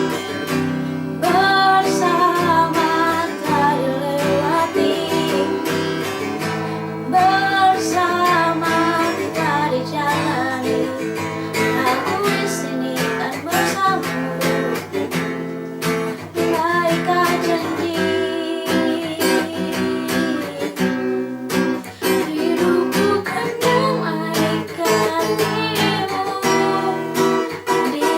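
A person singing a song to strummed acoustic guitar accompaniment.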